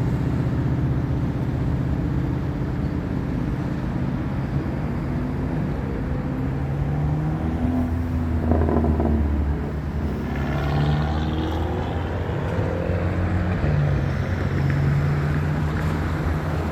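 Road traffic: engines of passing vehicles running at several shifting pitches, with one vehicle's engine climbing in pitch about ten seconds in.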